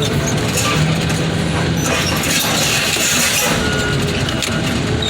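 Heavy equipment engine running steadily under load, with metal scraping and clinking from a junk car body being pushed and crushed, busiest in the middle of the stretch.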